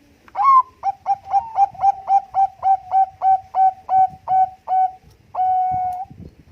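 Zebra dove of the Bangkok perkutut strain singing: a fast run of about fifteen short coos, roughly four a second, ending in one longer held note.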